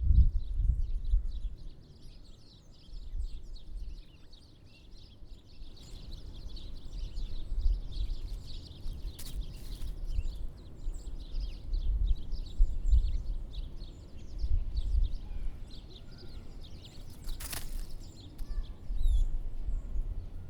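Many small songbirds at bird feeders chirping, short high calls overlapping throughout, over a low outdoor rumble. Two sharp clicks, one near the middle and one near the end.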